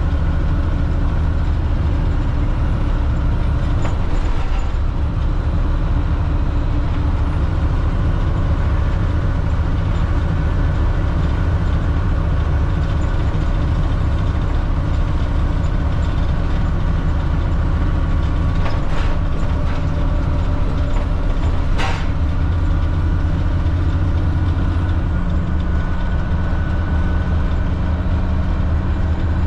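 The Cat C7 diesel engine of a 2005 Blue Bird All American FE school bus running steadily with a low hum, with two short clicks in the last third.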